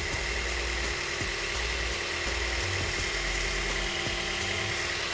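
2013 Toyota Corolla's 1.8-litre four-cylinder engine idling steadily, run after an oil filter housing replacement so the new housing can be checked for leaks.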